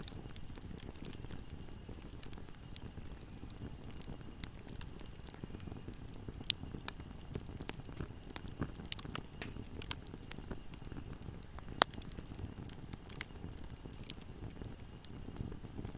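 Wood fire crackling and popping: irregular sharp snaps over a steady low rumble of burning, with two louder pops about six and twelve seconds in.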